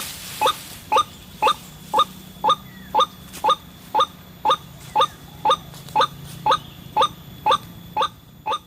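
White-breasted waterhen (ruak-ruak) call: a short note repeated steadily about twice a second, over a faint low hum.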